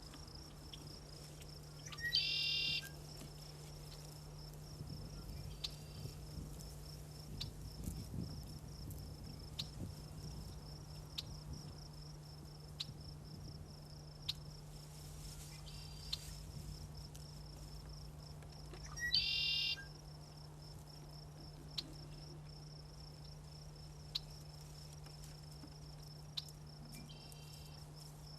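Insects trill steadily throughout, with a low steady hum underneath. A bird gives a loud, short, harsh call twice, about two seconds in and again past the middle, with fainter calls between and near the end.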